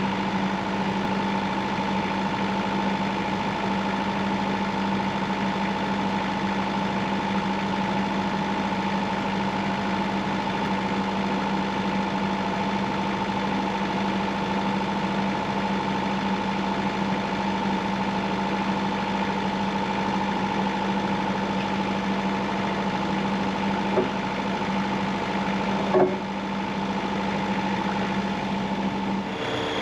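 Engine running steadily at constant speed, a low hum with a higher steady whine over it, and two sharp knocks near the end.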